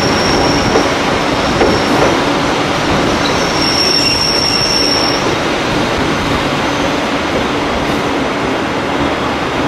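Senja Utama Solo passenger train heard from aboard, rolling slowly past a station platform with a steady rumble of the carriage and track. A thin high squeal rises out of the rumble twice, at the start and again about four seconds in, each lasting about a second and a half.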